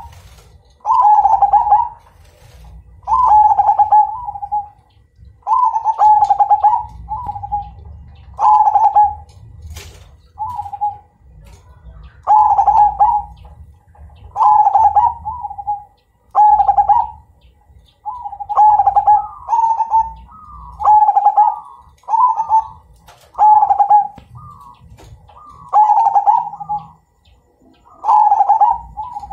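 Zebra dove (perkutut) of the Majapahit line cooing, loud and repeated: a phrase of quick rolling notes about every one to two seconds, with a second, higher cooing voice overlapping for a few seconds past the middle.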